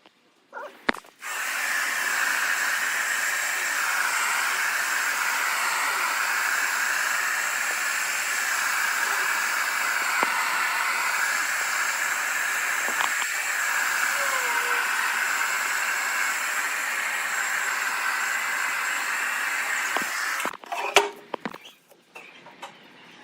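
A steady hiss from a workshop tool that starts about a second in and cuts off suddenly near the end, with a few clicks and knocks around its start and stop.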